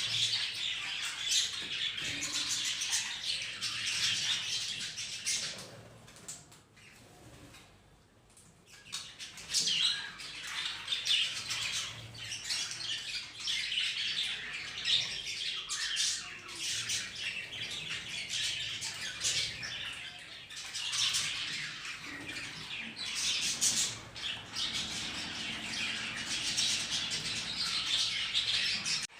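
Caged budgerigars chattering and chirping almost without pause, with occasional squawks mixed in; the chatter thins out for a few seconds about seven seconds in, then picks up again.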